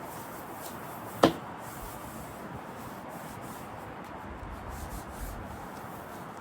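Steady rubbing, like hand sanding, on a car seat under repair, with one sharp knock about a second in.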